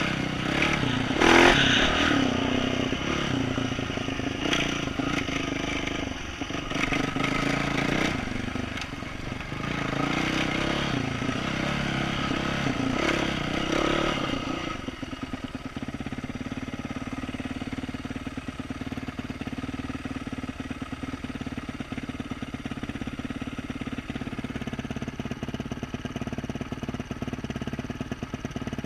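2012 Yamaha YZ450F single-cylinder four-stroke with an aftermarket exhaust, revving up and down over rough ground with scattered clattering knocks. About halfway through, it drops back to a steady idle.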